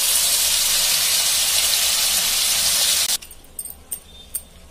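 Ground onion paste frying in hot oil in a steel pan: a loud, steady sizzle that cuts off suddenly about three seconds in. Then come light clicks of a wooden spatula stirring against the pan.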